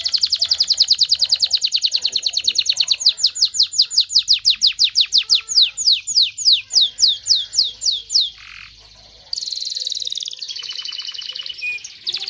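Domestic canary singing: a fast trill of repeated high notes that slows into a run of separate downward-sweeping whistles, then after a short break about eight seconds in, another rapid phrase begins.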